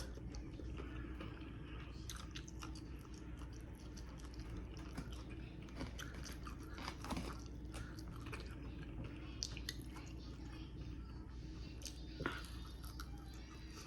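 Close-miked chewing of crispy fried chicken: crunching bites and wet mouth sounds, with one sharp crunch about twelve seconds in.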